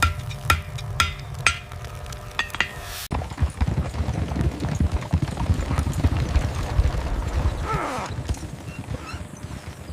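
Sharp knocks about twice a second, each with a short ring, then an abrupt change about three seconds in to a dense, irregular clatter of many small knocks.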